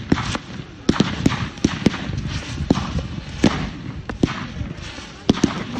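Fireworks going off: an irregular run of sharp bangs and crackles, several a second, over a steady hiss.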